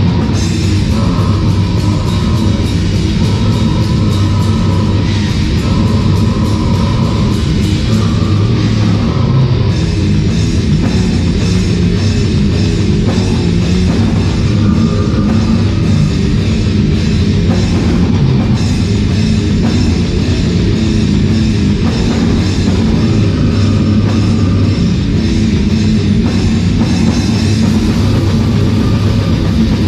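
Death metal band playing live: heavily distorted electric guitars over a drum kit, loud and dense, with fast, evenly spaced drum hits through roughly the first ten seconds.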